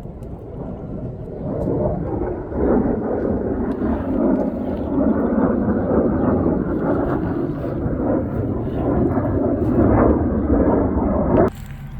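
Aircraft engine noise from a plane flying over during air show practice: a loud, steady rumble that swells a little, then cuts off suddenly near the end.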